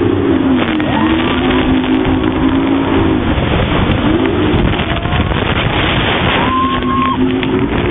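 A tour boat's motor running over a loud rush of water and wind noise, its pitch rising and falling as the throttle changes, dipping about a second in and again around four seconds in.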